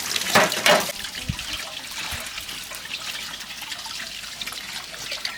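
Tap water running and splashing as dishes are washed by hand at a sink, loudest in the first second.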